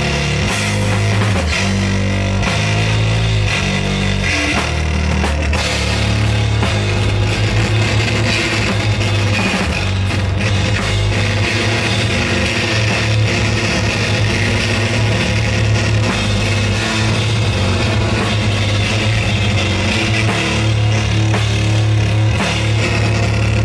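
Rock band playing live, loud: electric guitar, bass guitar and drum kit. The playing fills out and gets busier about five seconds in.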